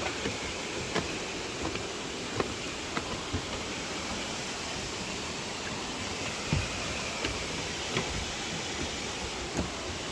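Wonang Falls waterfall rushing steadily, with a few short sharp clicks scattered through it.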